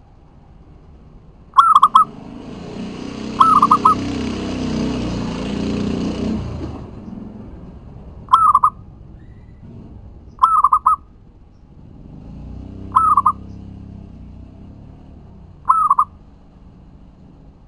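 A zebra dove (perkutut) cooing: six short trilled coos at irregular intervals of two to three seconds. A broad rushing noise swells under the calls between about two and seven seconds in, and more faintly again later.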